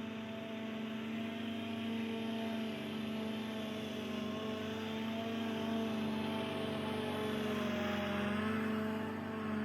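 Zero-turn mower engine running steadily under mowing load, its pitch sagging slightly about three-quarters of the way through.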